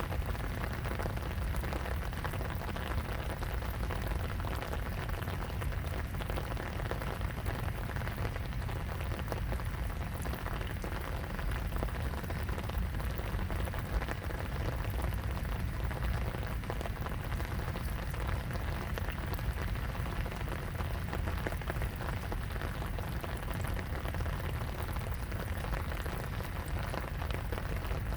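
Steady rain falling, a dense patter of drops over a low rumble underneath.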